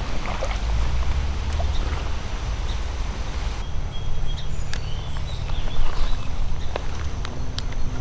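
Outdoor creek ambience with a strong low rumble of wind and water movement on the microphone, with scattered small sharp clicks and taps. The high background hiss drops off about three and a half seconds in.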